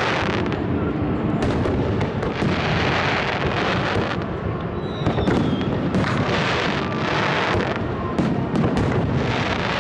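Aerial fireworks going off in quick succession: a dense run of sharp bangs over continuous crackling. A short, slightly falling whistle comes about five seconds in.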